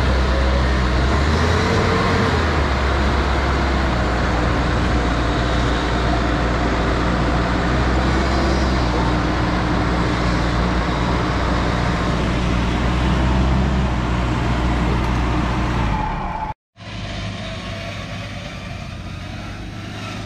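Engine of an off-road 4x4 running steadily at an even low pitch. Near the end the sound drops out for a moment, and an engine continues more quietly after it.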